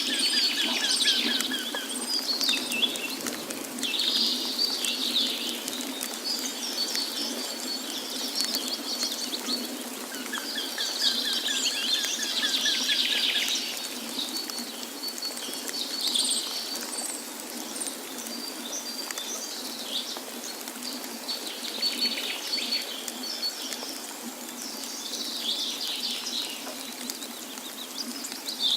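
Several songbirds singing in short chirping phrases every few seconds, with a rapid trill near the start and again about eleven seconds in, over the steady rushing of a waterfall.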